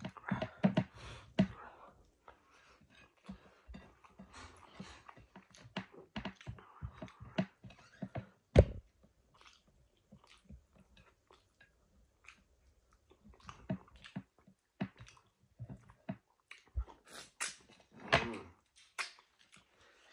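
Close-up chewing and mouth smacking while eating, as irregular wet clicks and smacks. A louder one comes about eight and a half seconds in, and a cluster comes near the end.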